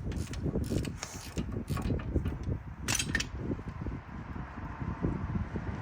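Metal clicks and clanks of hand tools working on a car's brake assembly, irregular, with the sharpest clank about three seconds in. A low wind rumble runs underneath.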